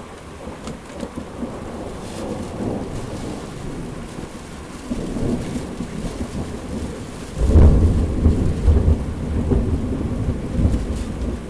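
Heavy rain falling steadily, then a loud, low rumble of thunder that starts suddenly about two-thirds of the way in and rolls on for a few seconds.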